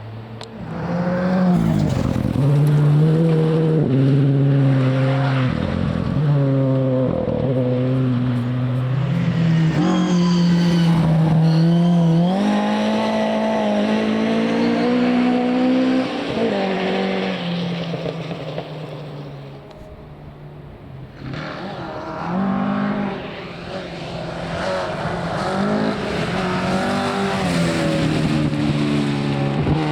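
Rally car engines at full effort through a corner: a car revs hard, the pitch rising and dropping with gear changes and lifts. It fades away about twenty seconds in, and another car's engine then builds up and revs through the corner.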